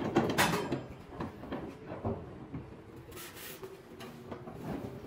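Knocks and clatter of parts being handled during machine setup, strongest in the first second, with a brief rustling hiss about three seconds in.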